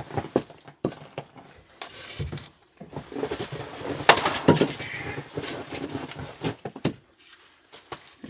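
Splitting maul striking wet, knotted firewood rounds: several sharp hits, the loudest about four seconds in.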